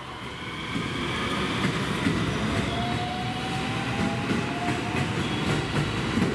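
A train moving through the station, getting louder about a second in. Its wheels click repeatedly over the rail joints, over a thin whine that drifts in pitch.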